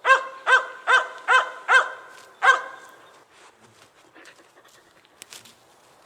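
A dog barking six times in quick succession, about two and a half barks a second, then stopping; a few faint clicks follow.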